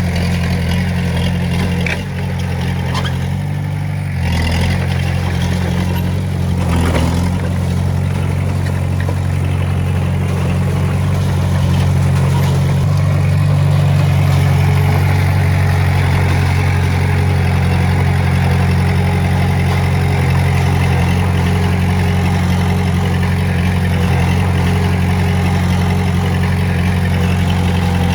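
Heavy-equipment diesel engine running steadily at a constant speed, with a slight dip in loudness a couple of seconds in and a few faint knocks early on.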